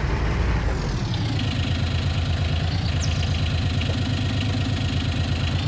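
John Deere Gator utility vehicle's engine running with a fast, even pulsing beat. Its note shifts about a second in, then holds steady.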